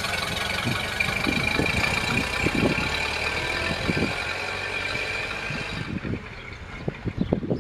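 1931 Ford Model A's four-cylinder flathead engine running as the car drives away, its sound fading, with the higher part dropping out about six seconds in. Irregular low thumps sound throughout and are loudest near the end.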